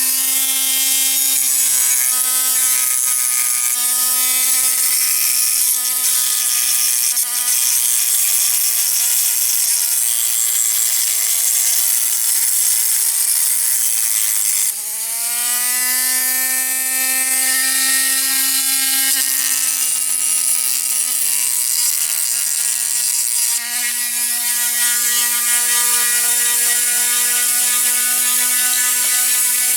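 Dremel rotary tool with a grinding stone running at a steady high whine while grinding off the end of a diecast toy's axle. About halfway through its pitch sags as it slows under load, then climbs back up to speed.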